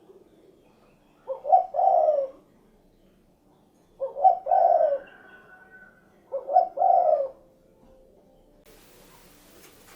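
Spotted dove (derkuku) cooing: three calls spaced about two and a half seconds apart, each a quick pair of short notes running into a longer coo.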